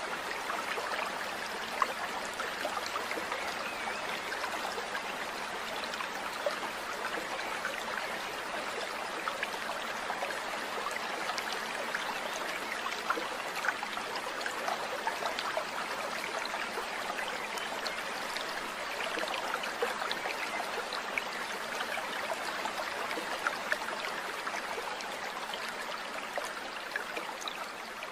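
Steady running water of a small trickling stream, with many small splashing ticks over an even rush.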